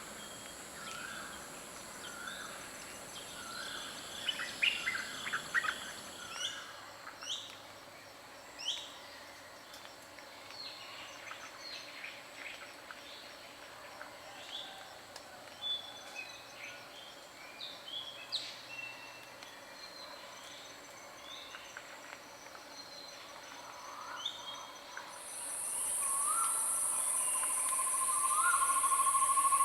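Several forest birds calling and chirping over steady faint insect trilling. Near the end a loud, steady, high-pitched insect buzz sets in and becomes the loudest sound.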